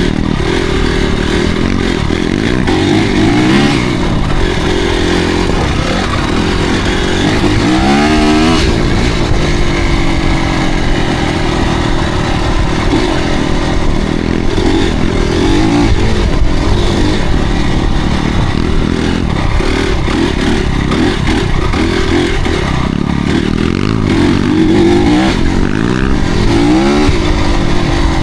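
Motocross bike engines revving hard, their pitch climbing and dropping again and again.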